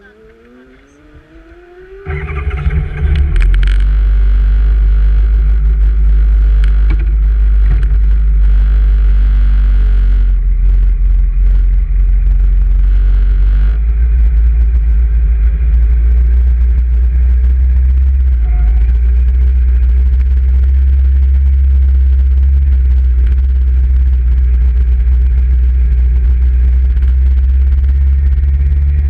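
Motorcycle under way: after a quiet start, a loud, steady low rumble sets in about two seconds in and runs on evenly.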